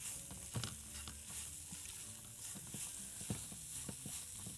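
Boiled chicken and onions sizzling in a hot pot as they are stirred, with occasional short knocks of the stirring utensil against the pot.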